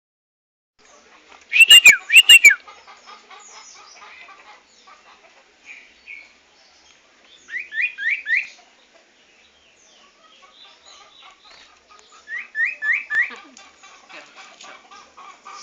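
Pet birds calling: a few loud, sharp calls about two seconds in, then two quick runs of three or four whistled notes later on, over soft continuous twittering.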